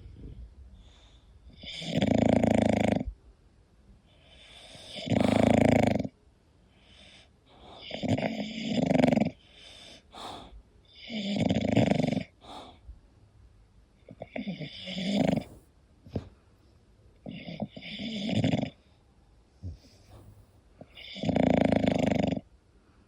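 English bulldog snoring in its sleep: a loud snore about every three seconds, seven in all, with quieter breathing between.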